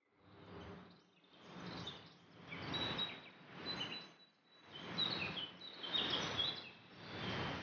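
Small birds chirping, with short high calls and a brief whistle, over a rustling outdoor noise that swells and fades about once a second.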